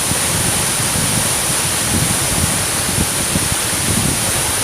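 Rimbi Falls, a large waterfall, rushing loudly and steadily up close, a dense even sound of falling water.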